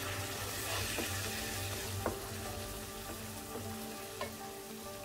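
Onion-paste curry masala sizzling in oil in a metal pan while it is stirred with a wooden spoon, the spices being fried down. A few sharp clicks of the spoon against the pan come about two and four seconds in.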